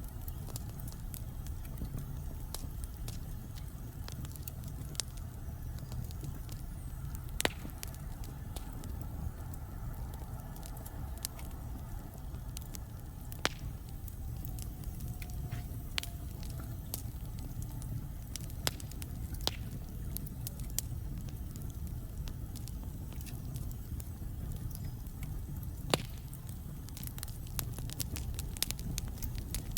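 Wood fire burning in a fireplace: a steady low rumble of flames with scattered sharp crackles and pops from the burning logs, one of the loudest pops near the end.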